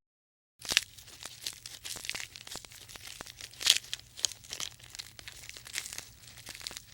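Dense, irregular crinkling and crunching: many sharp little clicks and crackles, some louder than others, starting about half a second in.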